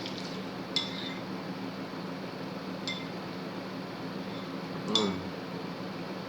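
An eating utensil clinking against a bowl of noodles three times, short ringing clinks about two seconds apart, the last the loudest.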